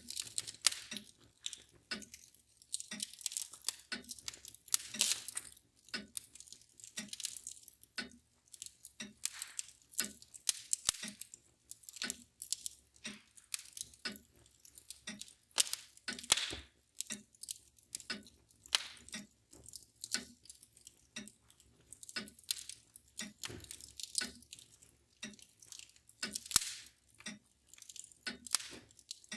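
Wood fire crackling and popping in irregular sharp snaps, with a mantel clock ticking steadily about once a second underneath.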